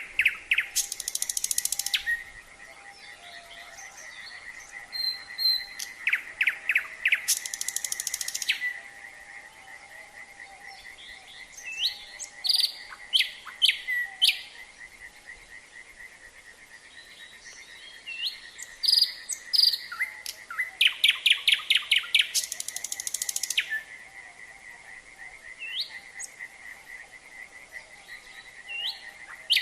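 Nightingale singing in phrases of a few seconds separated by pauses, mixing loud whistled notes, fast repeated clicks and high buzzing trills. Underneath, frogs call in a steady chorus of fast, even pulses that runs on through the pauses.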